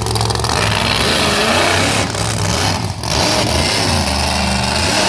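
Monster truck engine revving hard under heavy throttle, with brief drops in the sound about two and three seconds in.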